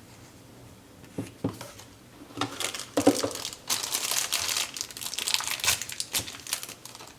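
Plastic packaging crinkling as hands handle it: a few light clicks, then a couple of seconds in a dense run of crackling and crinkling that lasts about four seconds.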